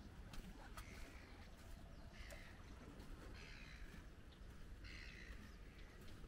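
Faint outdoor ambience: a bird calls four times, about a second and a half apart, over a low steady rumble of wind. A couple of light clicks come near the start.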